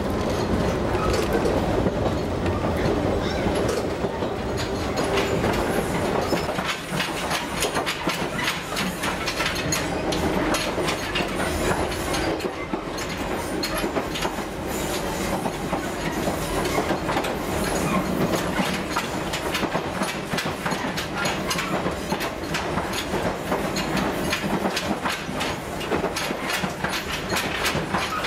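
Ichibata Electric Railway 3000 series electric train running, heard from inside the car: a steady rumble of wheels on rail with rapid clicking and rattling. About six seconds in, the deeper rumble drops back and the clicking comes to the fore.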